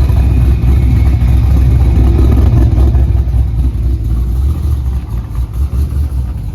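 Car engine running with a loud, steady low rumble, cut off abruptly at the end.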